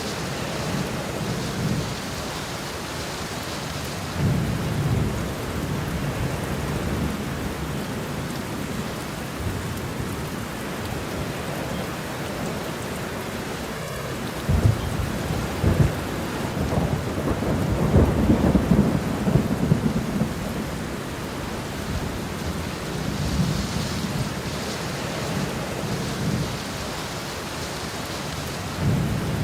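Steady rain in a thunderstorm, with low rolls of thunder rumbling in and out; the strongest rumbling comes about halfway through.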